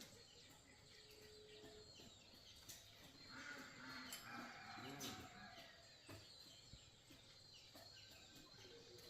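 Near silence: faint outdoor background with birds chirping faintly and a few light ticks.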